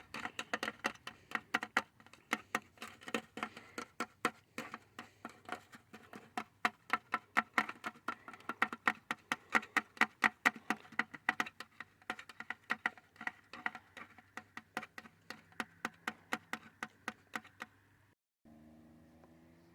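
Rapid, irregular tapping clicks, several a second, that stop abruptly about eighteen seconds in, followed by a faint low hum.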